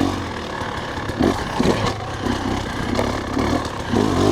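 Dirt bike engine running steadily at low revs in third gear while being ridden, with a few brief swells in engine note.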